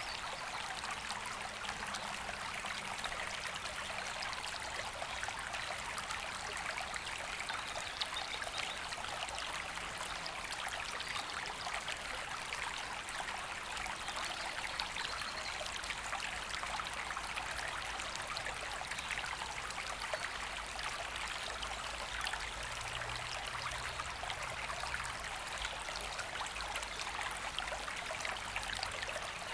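A woodland river flowing steadily: a continuous, even rush of water over stones.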